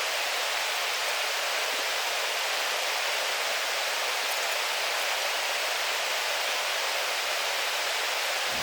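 Steady rushing of a waterfall: an even hiss of falling water with almost no low rumble, unchanging throughout.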